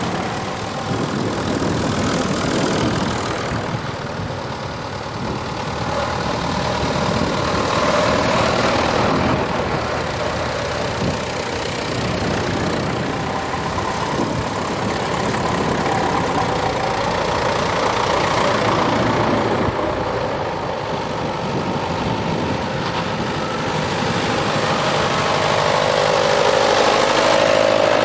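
Tractor engines running, the sound swelling and fading several times as tractors go by one after another.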